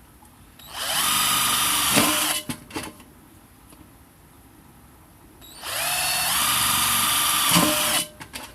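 Electric drill run twice for about two seconds each time, spinning up to speed and winding down, with a few short knocks after each run.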